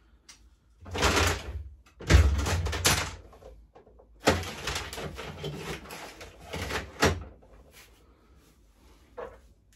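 Loose metal sockets clattering and rattling as they are gathered up and sorted in a toolbox, in several spells of rummaging with short quiet gaps between them.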